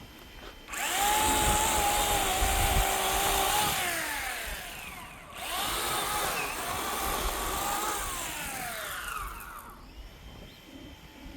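Electric chainsaw running in two bursts of about four seconds each, its motor pitch falling away as it winds down at the end of each burst.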